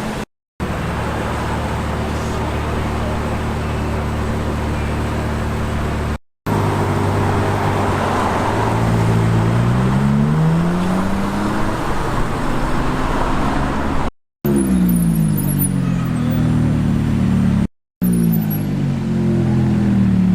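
Ferrari 812 GTS's V12 engine running, its pitch rising steeply as the car accelerates away. After a cut, a McLaren 570S Spider's twin-turbo V8 runs with its pitch falling twice.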